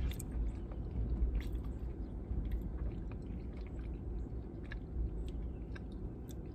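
A person chewing food with the mouth closed, with soft wet smacks and small clicks scattered throughout.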